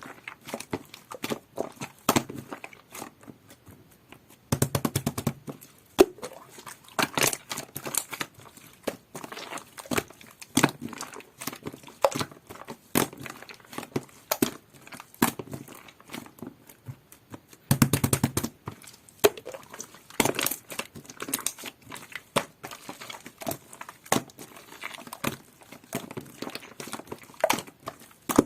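Slime mixed with shaving foam being kneaded and squeezed by hand, giving a steady stream of irregular sticky crackles and small clicks. There are two denser, louder bursts of crackling, about five seconds in and about eighteen seconds in.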